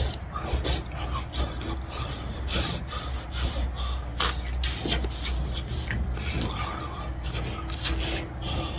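A person huffing and blowing short breaths around a mouthful of hot roasted sweet potato while chewing. A wood fire crackles throughout, with many sharp pops.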